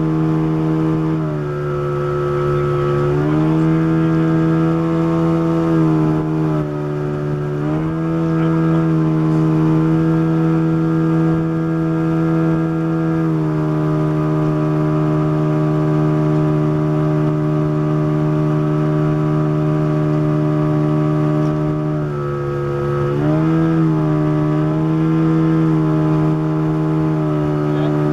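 Motorboat engine running steadily under way, its pitch dipping briefly and picking back up about a second and a half in, again around seven seconds, and once more near twenty-three seconds.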